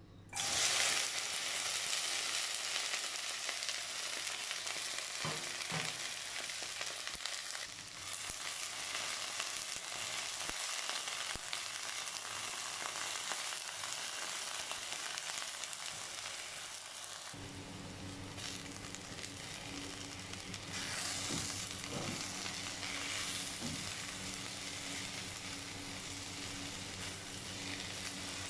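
Sliced okra sizzling in hot oil in a non-stick wok, the frying starting suddenly as the pieces are tipped in, then stir-fried with a spatula scraping and turning them.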